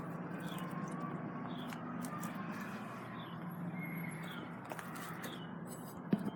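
Steady low mechanical hum of outdoor heat pump and air-conditioner units running. Short high falling bird chirps repeat about once a second over it.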